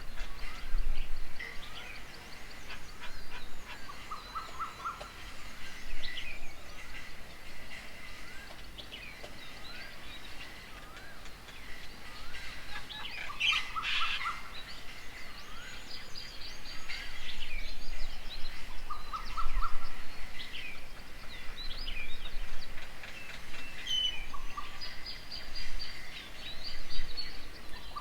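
Several wild birds chirping and calling over one another in a busy mix of short chirps and whistled glides. A short, quick run of four or five notes recurs three times, about 10 to 14 seconds apart.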